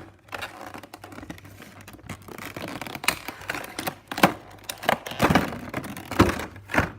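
Model-aircraft packaging being handled as the model is pulled out of its box: irregular scraping and rustling with sharp clicks and knocks, busier and louder in the second half.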